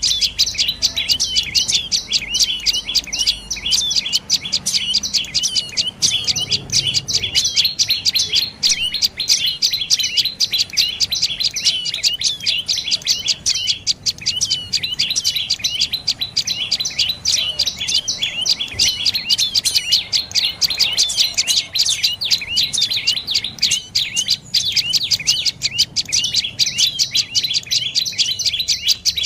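Dark-necked tailorbird calling: a rapid, unbroken series of high, sharp chirping notes, about five or six a second, kept up without a pause.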